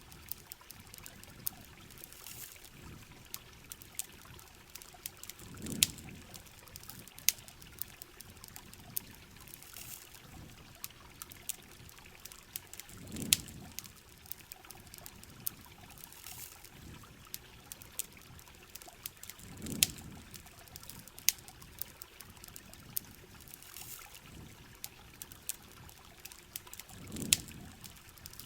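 Heavy rain on a camping shell with a campfire crackling: a steady wash of rain, many sharp pops and ticks, and a low swell that comes back about every seven seconds.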